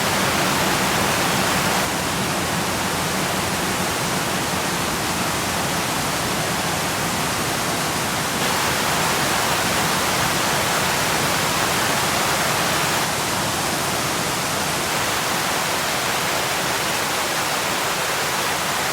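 Steady rush of a large waterfall's falling water and spray close by, a dense even roar of white water with small jumps in level at a few edits.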